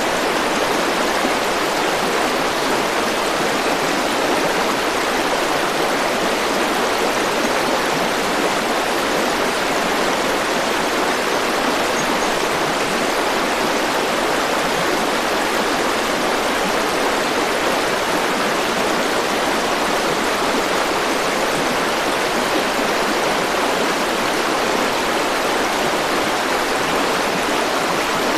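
River or stream water flowing and rushing steadily, with an even, unbroken noise.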